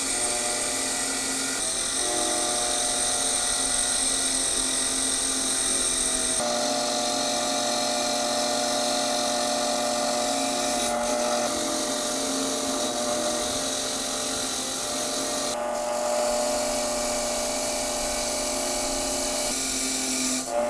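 A small electric power tool whining steadily at high speed. Its pitch and tone jump abruptly several times, about every four to five seconds.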